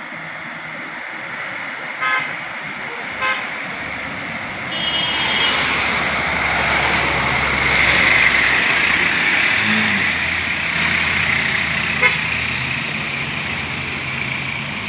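Road traffic: a vehicle horn gives two short toots and then a third. A vehicle passes close by, its engine and tyre noise swelling and then easing off.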